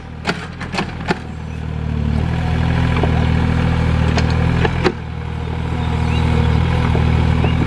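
Excavator's diesel engine running under load, easing off near the start and again about five seconds in and then building back up each time. Sharp clanks and knocks come in the first second and again around four to five seconds in.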